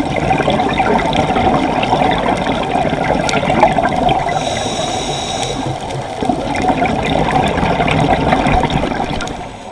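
Water rushing and churning in a steady, noisy wash that fades near the end.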